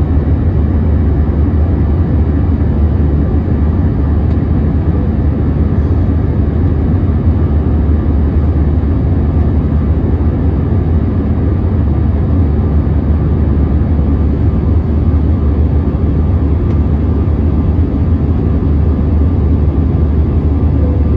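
Steady cabin noise inside an Airbus A321: a deep, even rumble of the jet engines and airflow, unchanging throughout.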